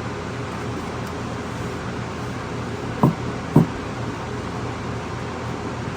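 Steady room hum, with two short knocks about half a second apart about three seconds in.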